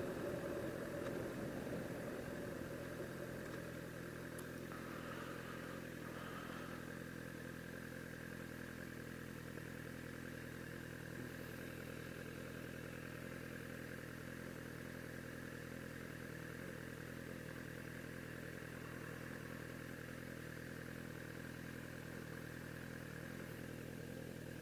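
Sport bike engine idling steadily, settling down from higher revs over the first few seconds.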